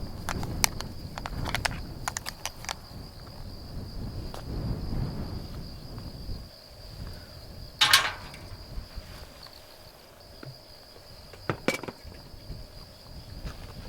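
Wind buffeting the microphone, dying down about six seconds in, under a steady high-pitched tone. A few light clicks come early, with two louder sharp knocks about eight and twelve seconds in.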